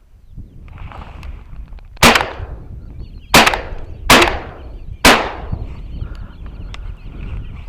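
Four shotgun shots fired in quick succession, each with a short fading echo.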